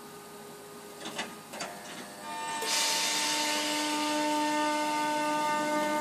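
A train approaching through the station: two sharp clicks about a second in, then from about two seconds in a rush of wheel and air noise swells up, with several steady whining tones over it, still getting louder at the end.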